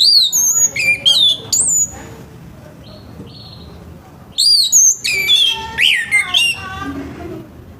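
Orange-headed thrush singing in loud phrases of quick rising-and-falling whistles mixed with harsher notes. It sings in two bouts, one at the start and another from a little past halfway.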